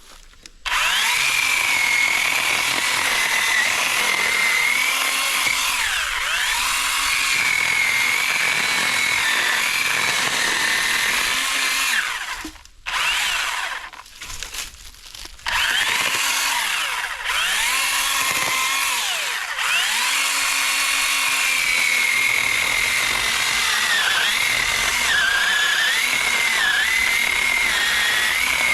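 Cordless electric chainsaw, powered by two 20-volt batteries, running and cutting into a wooden stick. Its motor whine wavers up and down as the chain bites. It starts about a second in, stops and restarts a few times around the middle, then runs steadily on.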